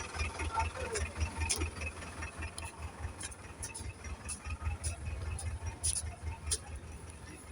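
Vehicle engine idling: a low, uneven throb with a few faint clicks and rattles.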